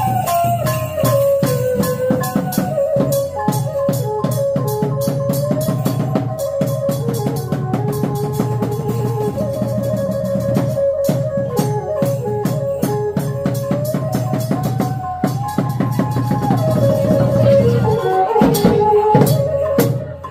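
Khmer chhay-yam drum-dance ensemble music: a wavering lead melody over fast, dense drum strokes, cutting off at the very end.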